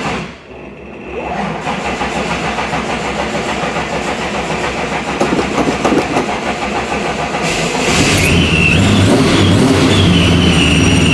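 Supercharged 1969 Camaro being cold-started: the starter cranks the engine for several seconds before it catches about eight seconds in and runs, louder, with a high whine on top. It is a hard cold start after the car has sat about two weeks.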